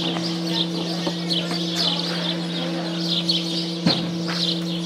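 Small birds chirping repeatedly over a steady low hum, with a single knock about four seconds in.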